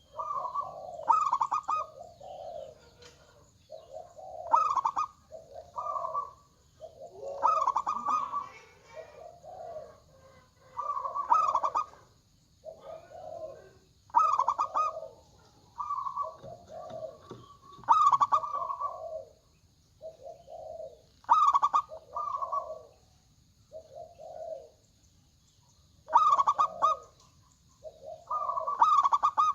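Local zebra doves (perkutut) cooing: short, rhythmic coo phrases repeated one after another every second or two, with brief pauses between them.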